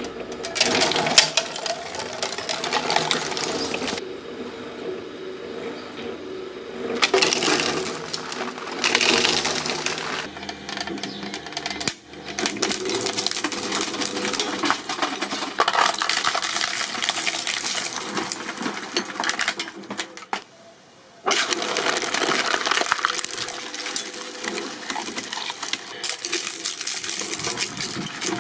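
Shredding machines grinding and crunching material, with dense clattering and crackling, broken by several abrupt cuts between clips and one short drop-out about two-thirds of the way through.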